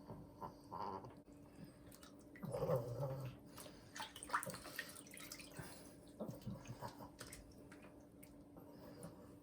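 An elderly pug making a short low vocal sound about two and a half seconds in, amid scattered splashing and dripping of bath water.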